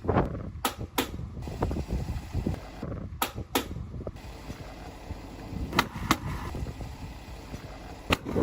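Construction work sounds: sharp knocks, mostly in pairs about a third of a second apart, over a low rumble.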